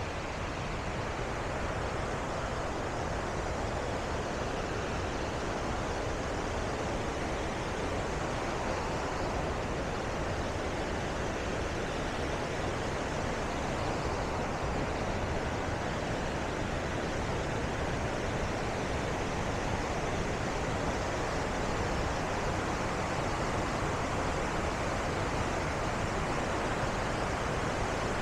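Bow Falls on the Bow River: the steady rushing of falling water, growing slightly louder.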